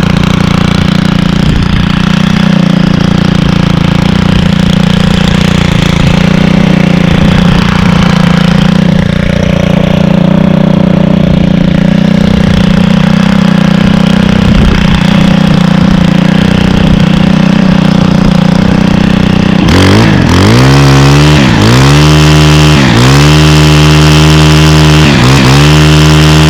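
Stihl FS91R string trimmer's 28.4cc 4-Mix engine running steadily just after starting, then revved with about five quick throttle blips near the end, its pitch rising and falling each time.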